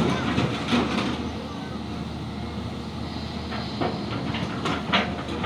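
Heavy diesel machinery running steadily, with several sharp metallic clanks along the way.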